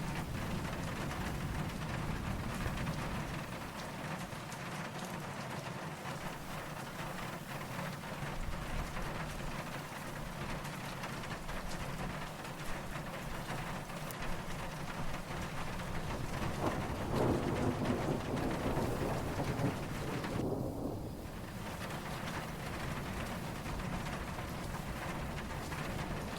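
Steady rainfall with a low rumble of distant thunder swelling up about two-thirds of the way through, then fading.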